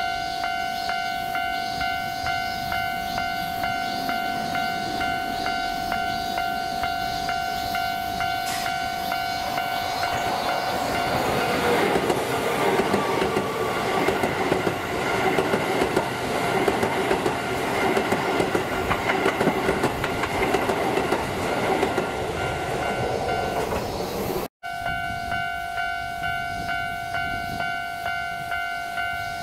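Keisei 3000-series electric commuter train approaching and passing close by: motor and wheel-on-rail rumble with rattling builds from about ten seconds in and stays loud until the sound cuts off abruptly near the end, leaving a distant approaching train. A steady, evenly pulsing ringing tone runs under it throughout.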